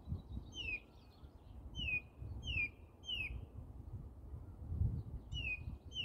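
A small bird calling with a short, sharply falling whistled note, repeated four times in a row, a pause, then again near the end. Underneath runs a low, uneven rumble of wind on the microphone.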